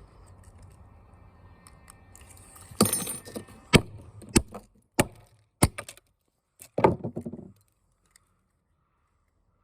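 Parts of a dismantled small speaker being handled: a run of sharp clicks, knocks and rattles of small plastic and metal pieces, about half a dozen separate hits with a busier rattle near the end.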